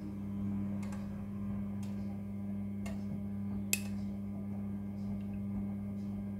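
Midea front-loading washing machine tumbling the wash: a steady motor hum with a few sharp ticks, about a second apart, as the drum turns.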